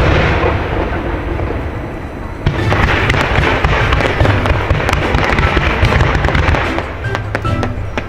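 Aerial fireworks: a shell's boom dies away at the start, then a dense crackling spreads from about two and a half seconds in and lasts for several seconds, with music underneath.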